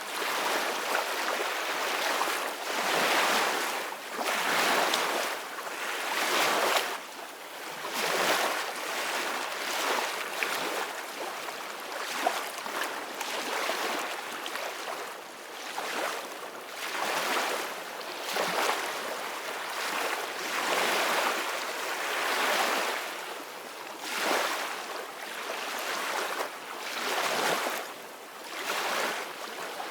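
Ocean waves breaking and washing on a shore, a steady rush of surf that swells and eases every two to three seconds.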